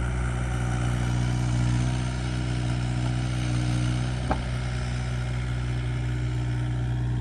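Kubota digging machine's diesel engine running steadily at an even speed while it scoops dirt from a grave, with one brief click about four seconds in.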